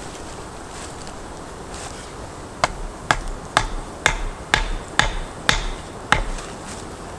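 Eight sharp strikes, about two a second, each with a dull thud beneath, like a hatchet chopping or a mallet hammering at camp.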